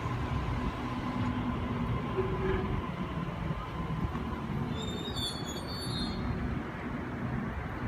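Sydney Trains Waratah electric train standing at the platform with a steady low rumble, shortly before it departs. A brief burst of high chirps about five seconds in.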